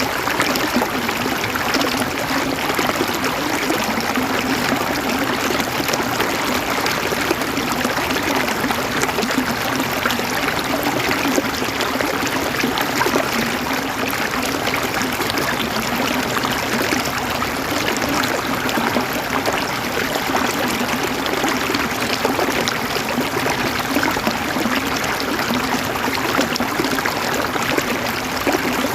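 River water flowing over rocks, a steady babbling and gurgling rush with no pauses.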